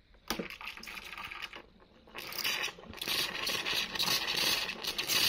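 A few light knocks of handling, then about two seconds in the Breville Barista Max's steam wand starts hissing steadily as steam is let out for frothing milk.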